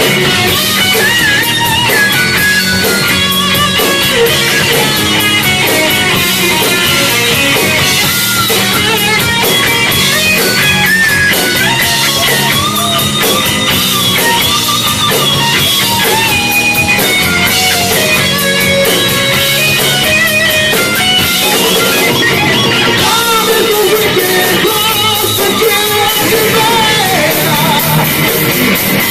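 Live heavy metal band playing loud and without a break: guitars over bass and a drum kit.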